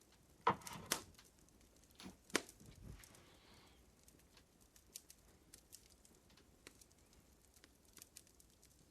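Wood fire crackling: irregular small snaps and ticks, with a few louder pops about half a second, one second and two and a half seconds in.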